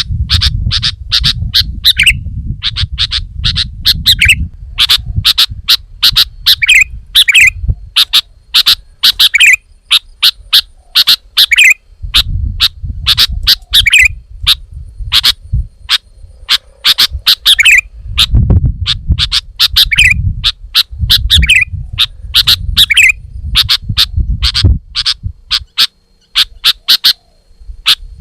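Sooty-headed bulbul (kutilang) calling loudly and without pause: rapid runs of sharp, high chirps, each run closing with a short warbled note every second or two. At times there is a low rumble underneath.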